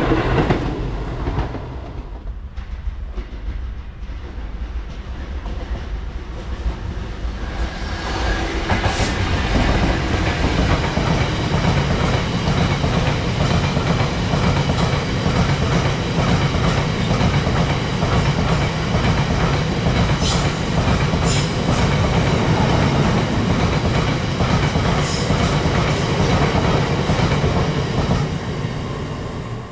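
The tail of a Class 170 Turbostar diesel multiple unit passing fades away over the first two seconds. Then a freight train of empty open box wagons rolls past with a steady rumble and the clickety-clack of wheels over rail joints, with a few sharp metallic clicks and squeals in the middle.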